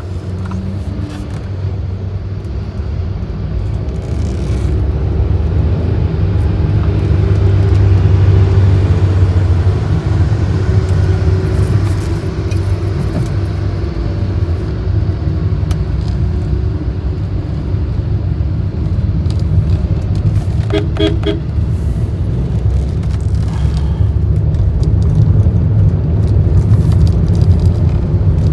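Road and engine noise of a car driving on a highway, a steady rumble that grows louder for a few seconds as the car picks up speed. About three quarters of the way through comes a brief run of short, rapid beeps.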